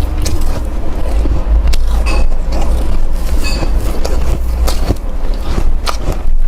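Close-miked biting and chewing of crunchy freezer frost, heard as a run of irregular crisp crunches over a steady low rumble.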